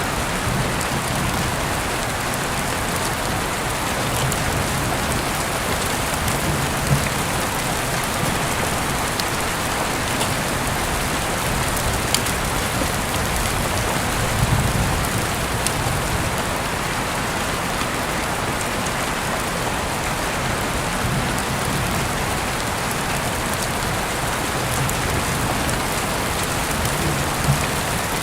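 Heavy rain falling steadily, heard through an open window, with scattered sharper drips and splashes standing out now and then.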